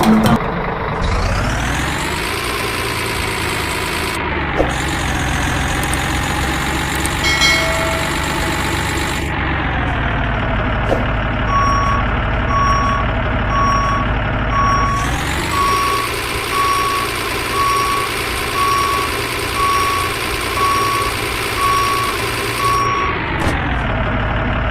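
Truck engine running, its pitch rising and falling several times as it revs up and slows, with a reversing alarm beeping steadily, a little over once a second, through the middle and later part.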